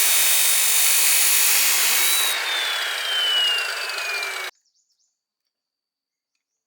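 A power tool running loudly. Its motor whine falls steadily in pitch from about two seconds in, and the sound cuts off abruptly about four and a half seconds in.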